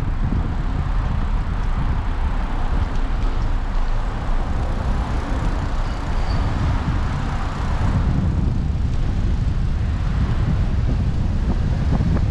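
City traffic and road noise heard from a moving bicycle, with wind rumbling on the microphone. The higher road noise drops away about eight seconds in and the wind rumble grows.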